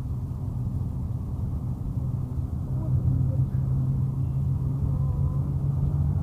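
Car driving along a road, heard from inside the cabin: a steady low drone of engine and tyre noise.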